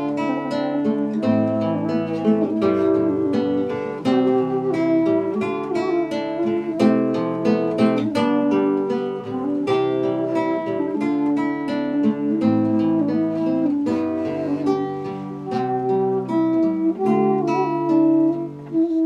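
Acoustic guitar playing an instrumental passage of a song, a steady run of plucked and strummed chords with no singing.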